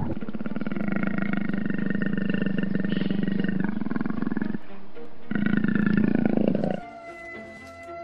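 A large animal roaring: one long, rough, pulsing call of about four and a half seconds, a short break, then a second shorter call. Soft music with held notes takes over near the end.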